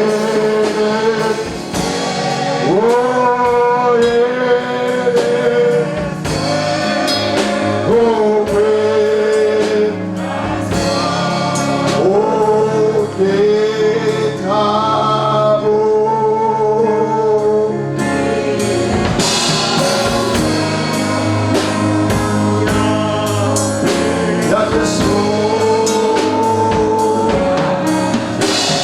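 Congregation singing a slow gospel hymn with a band and drum kit, long held notes.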